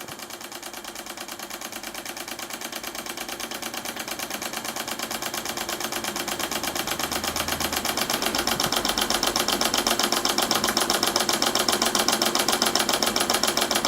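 Empire Model 62 toy steam engine running with a rapid, even chuff and clatter that grows gradually louder. Its electric heater has been switched off, so it is running on the steam left in the boiler, helped by its heavy flywheels.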